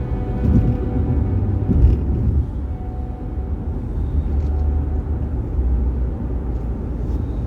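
Car driving, a steady low road and tyre rumble, with two short thumps in the first two seconds.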